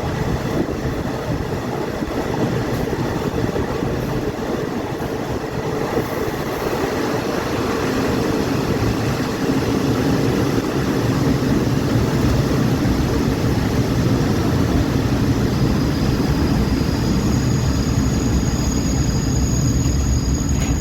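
Passenger train running, heard from on board: a steady rumble that grows louder about halfway through, with a high thin squeal starting near the end.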